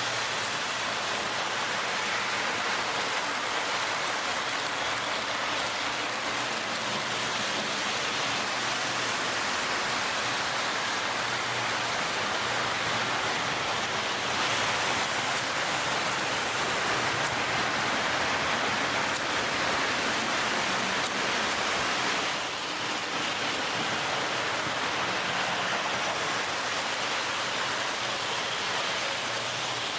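Lionel O gauge MPC-era D&H U36c diesel locomotive running on the track: a steady rushing rumble of wheels and motor. It gets a little louder about halfway through and dips briefly about three quarters of the way in.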